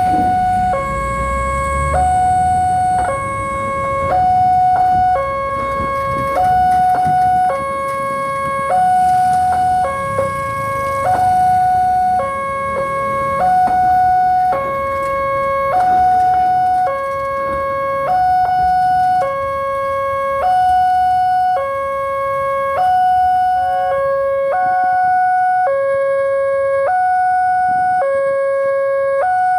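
Railway level-crossing warning alarm sounding, two tones alternating about once a second, which signals an approaching train with the barriers closing. A low rumble of road traffic lies under it at the start.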